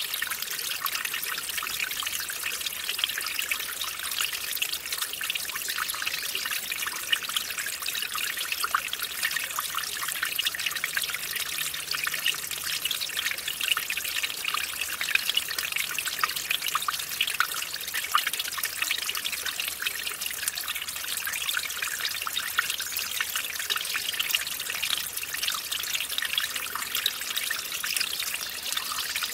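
Small mountain stream trickling and splashing over a little waterfall, a steady bright babble of water without pause.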